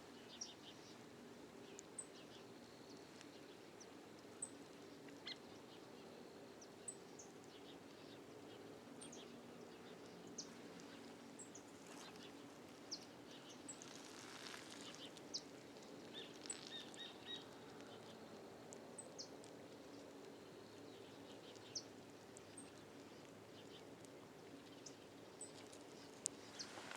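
Faint outdoor ambience of small birds chirping: one gives a short, high note about every two and a half seconds while others call now and then, over a low steady hum.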